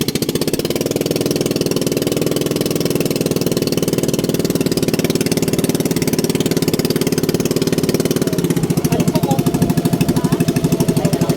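A small engine running steadily with a rapid, even chugging, its pitch shifting slightly about eight seconds in.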